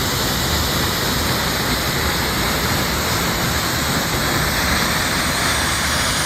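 Waterfall's steady, even rush of falling water, loud and unbroken.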